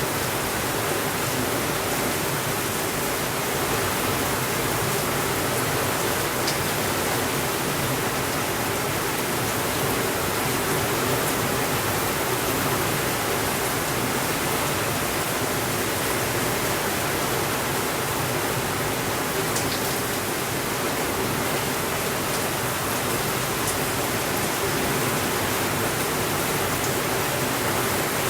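Heavy rain on a window, falling in a steady, even hiss, with a few faint ticks.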